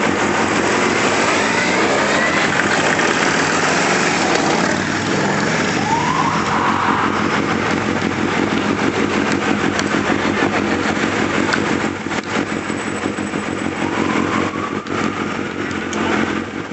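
A group of motorcycles riding past one after another, engines running, with several rising revs as riders accelerate away.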